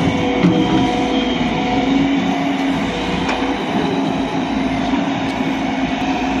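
JCB 3DX backhoe loader's diesel engine running steadily under load, with a steady whine over it and a couple of faint knocks.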